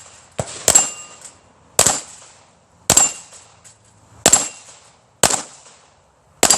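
A run of gunshots at a steel plate rack, about one shot a second, seven in all, each with a sharp metallic ring from a steel plate being hit.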